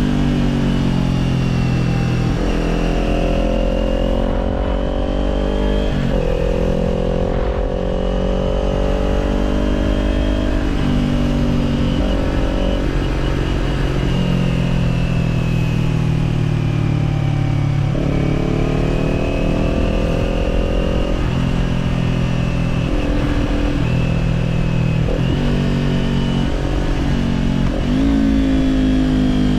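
Kawasaki Z400's parallel-twin engine through an Orion Katya slip-on exhaust while riding: engine pitch climbs under throttle and drops at each shift or roll-off, about half a dozen times, over a steady low rumble.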